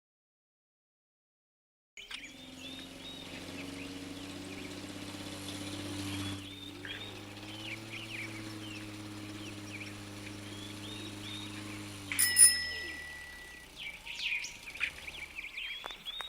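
Birds chirping over a steady, held low chord, starting suddenly about two seconds in. Near twelve seconds the chord fades as a sudden bright strike rings out, the loudest sound here, and scattered chirps continue.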